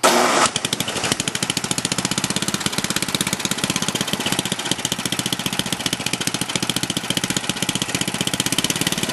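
Gas engine of a 10 horsepower John Deere snowblower on a cold start after months of storage. It comes in suddenly, loudest for the first half second, then runs steadily with rapid, even firing.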